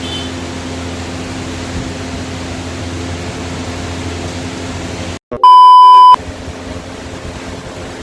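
A steady low hum and hiss. About five seconds in, the sound cuts out for a moment, then a single loud, high electronic beep sounds for under a second.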